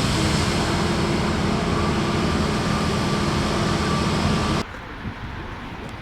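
Jet airliner engines running loud and steady, with a steady whine over the noise, cut off abruptly about four and a half seconds in, leaving quieter outdoor background with a few faint ticks.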